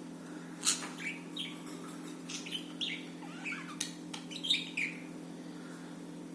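Budgerigars chirping and chattering in a quick run of short chirps and squawks, which stop about five seconds in. Under them sits a steady low hum.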